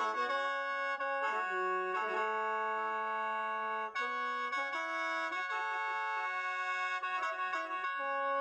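Khaen, the Lao bamboo free-reed mouth organ, playing a melody over steady held drone notes, with quicker runs of notes about a second in and again near the end.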